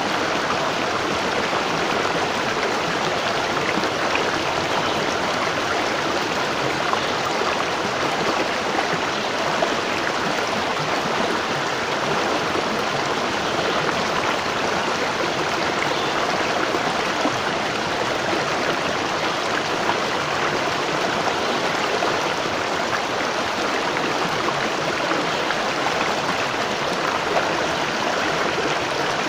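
Natural waterfall: water falling and splashing in a steady, even rush.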